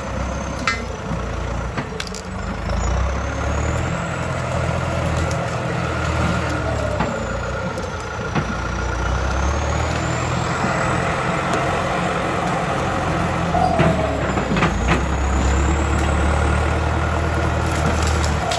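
A 76-horsepower John Deere tractor's diesel engine running, its low drone swelling and easing, with a few clicks and knocks over it.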